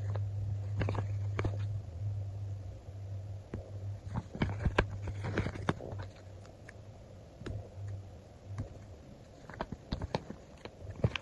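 Stickers being peeled from a backing sheet and pressed down: scattered small clicks and crackly paper rustles, thickest about four to six seconds in and again near the end, over a low hum that cuts in and out.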